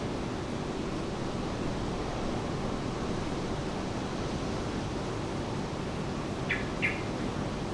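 Steady rain falling, an even hiss, with two short high chirps close together near the end.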